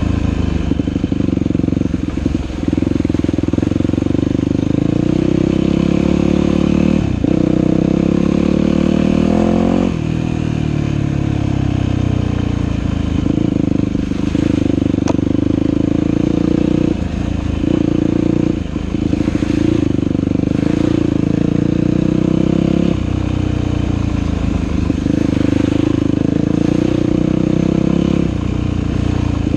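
Dirt bike engine running hard on a trail ride, revs rising and falling with throttle, with brief dips every few seconds as the throttle is eased off and picked up again.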